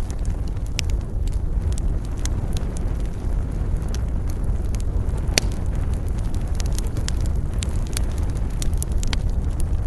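Wood fire in a fireplace crackling: frequent small snaps and pops over a steady low rumble, with one louder pop about five seconds in.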